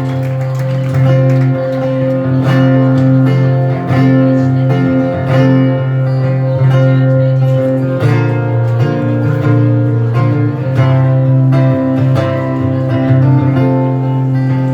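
Acoustic guitar strummed in a steady rhythm, playing the instrumental introduction of a song.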